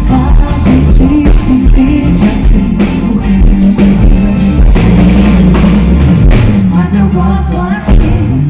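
A band playing loud rock-style music with a drum kit on a steady beat, bass, guitar and a singing voice.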